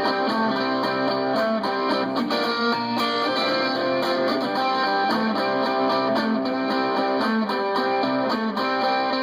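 Guitar music: plucked and strummed guitar playing a run of changing notes at a steady level.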